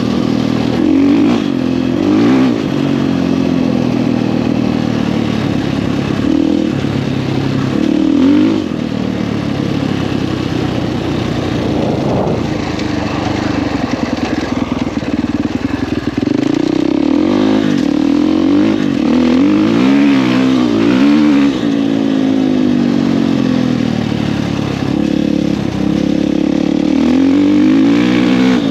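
Husqvarna FE 450 single-cylinder four-stroke dirt bike engine with an FMF 4.1 exhaust, ridden hard, its revs climbing and dropping again and again.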